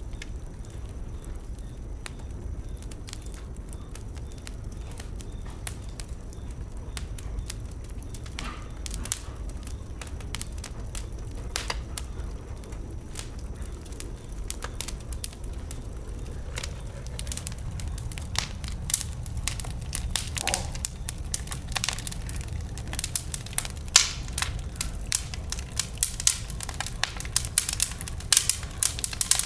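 Wood bonfire crackling and popping, with sharp snaps that come thicker and louder in the second half, over a steady low rumble.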